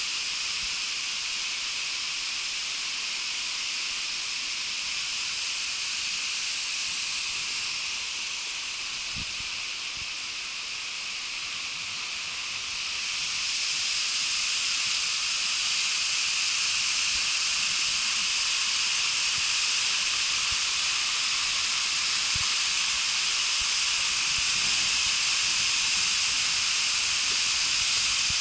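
Waterfall: a steady rush of falling water that grows louder about halfway through.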